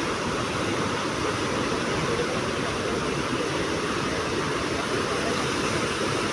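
Sea surf, a steady wash of waves with no separate events.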